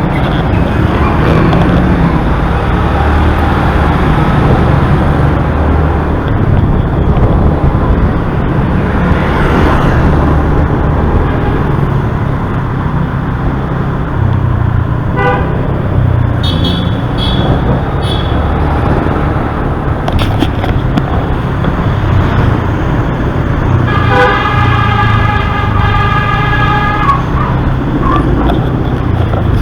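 Steady engine and road noise of a motorbike riding in city traffic, with vehicle horns honking: a short beep about halfway through, a few quick toots just after, and a longer horn blast held for about three seconds near the end.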